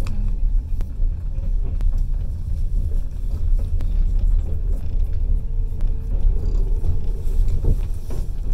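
Passenger train running along the track, heard from on board: a continuous low rumble of wheels on rails with a few faint clicks. A thin steady whine comes in about halfway through and stops near the end.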